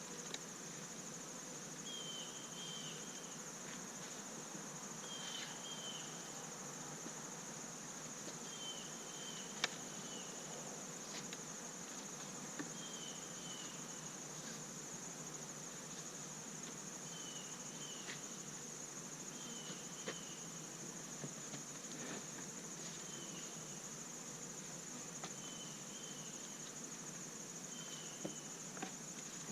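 Steady high-pitched insect trilling, cricket-like, with a short double chirp repeating about every two seconds and a few faint clicks.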